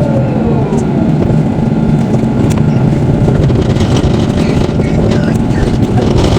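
Electric tram running along the line, heard from on board: a loud steady rumble of the running gear. Near the start a whine falls in pitch, and around five seconds in there are a few faint high squeals.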